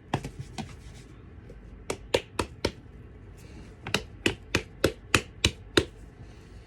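Sharp knocks in quick runs, about four a second: a dirty sneaker being knocked against a hard surface to loosen dirt.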